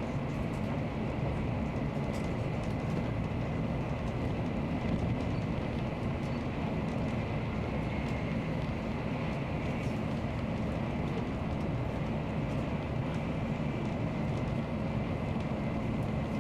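Nozomi Shinkansen bullet train running steadily at speed: an even rumble and rush of noise, with a faint steady high whine above it.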